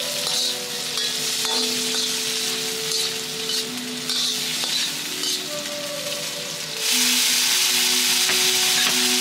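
Shrimp and chopped shallot sizzling in oil in a wok, with a metal ladle scraping and stirring against the pan. About seven seconds in, the sizzle suddenly grows louder and stays up as sliced tofu goes into the hot oil.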